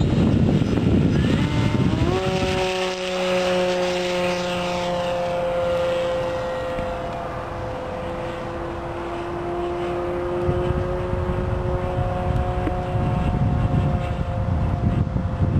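Propeller whine of an electric RC racing plane, a Cosmic Wind Minnow with a brushless outrunner motor and 13x13 prop, flying past: the tone climbs sharply about two seconds in, then slowly falls in pitch as it flies away. Wind rumbles on the microphone at the start and again near the end.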